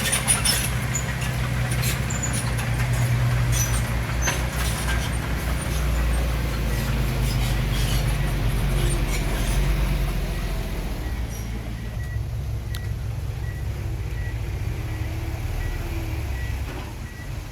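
Bulldozer's diesel engine running under load, with sharp metallic clanks and knocks over the first few seconds; the engine note drops lower about six seconds in and eases off after about ten. Faint high beeps repeat about every two-thirds of a second near the end.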